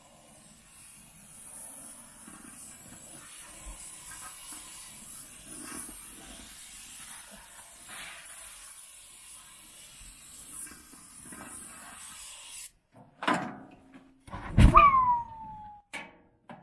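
A faint steady hiss for about twelve seconds that cuts off suddenly, then two short loud bursts. The second burst is a heavy thump with a falling tone.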